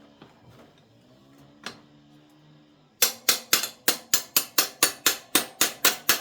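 A quick run of evenly spaced hammer blows, about four a second, starting about halfway through and going on to the end.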